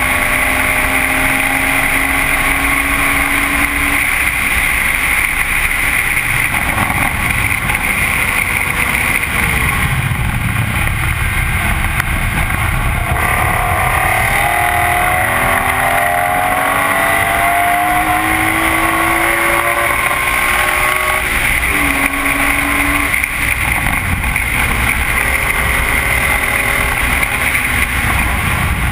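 BMW E46 M3's straight-six engine at speed on a race track, heard through a Supersprint exhaust: the engine note holds, falls about a third of the way in, then climbs steadily for several seconds before dropping again, as the car brakes, downshifts and accelerates. Heavy wind and tyre noise on the outside-mounted camera run under it.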